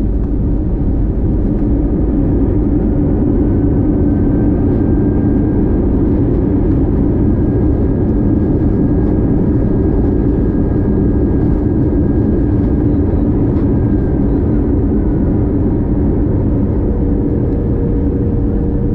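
Steady cabin noise inside an Airbus A321 with IAE V2533-A5 engines: engine and airflow noise held at an even level, with a faint thin whine through the middle and a second steady tone coming in near the end.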